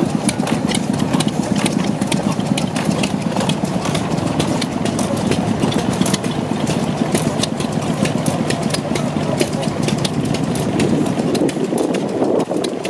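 Deutz MOS 124 stationary gas engine running steadily, with a constant clatter of sharp ticks over its low running sound.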